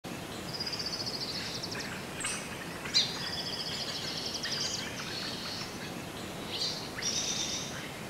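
Songbirds singing in rapid, high trilled phrases and chirps over a light background hiss, with one sharp click-like note about three seconds in.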